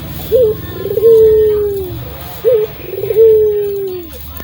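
Domesticated ringneck dove (burung puter) cooing: twice, a short upward note followed by a long drawn-out coo that wavers at first and slides down at the end.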